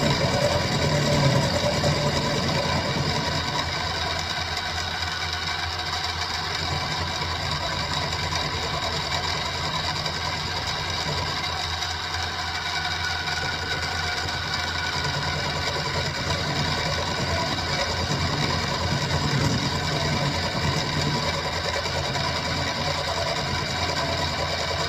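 SIEG X2-type benchtop mini milling machine running steadily, its motor and gear-driven head whining with several steady tones, as it mills 1045 steel.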